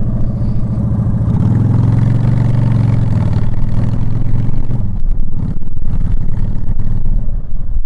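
Motorcycle engine running, revved up and back down once about a second in, then running on less evenly with some clattering near the end.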